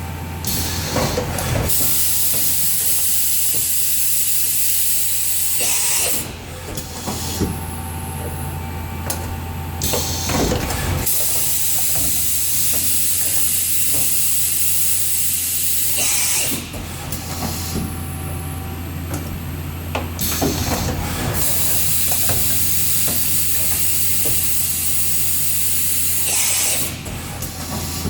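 2001 Mazak FH4800 horizontal machining center running over a steady low hum. Three spells of loud hissing spray, each about five seconds long and about ten seconds apart, alternate with quieter stretches of faint whine and scattered clicks.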